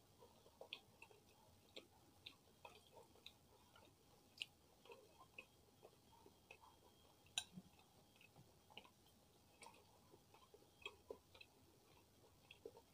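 Soft, close-up chewing and mouth clicks of someone eating chicken porridge topped with crackers: a string of small irregular ticks, with one sharper click about seven seconds in.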